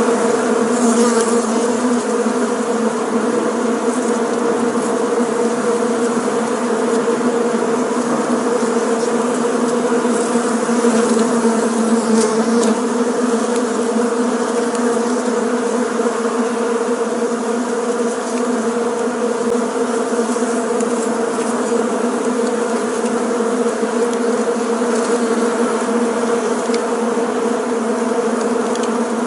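Bees buzzing together in a steady, unbroken hum.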